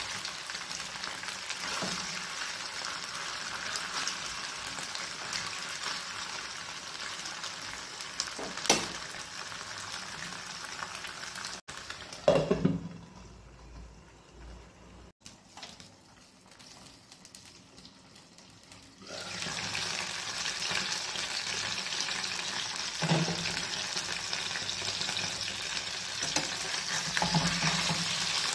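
Paneer cubes shallow-frying in hot oil in a frying pan: a steady sizzle with a few scrapes and knocks of a metal spatula. About twelve seconds in, after a sharp knock, the sizzle turns faint and muffled under a glass lid for about seven seconds, then comes back at full strength.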